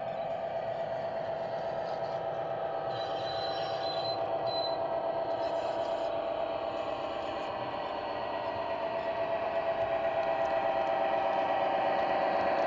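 00 gauge model train running round the layout track, its motor humming with a rapid rhythmic rattle of wheels on rail. It grows steadily louder as it comes nearer.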